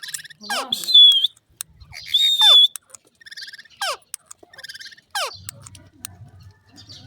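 Parrot calling: a series of sharply falling whistles, two loud, high, held whistles about one and two seconds in, and buzzy chatter between them. The calls stop about five and a half seconds in, leaving a faint low hum.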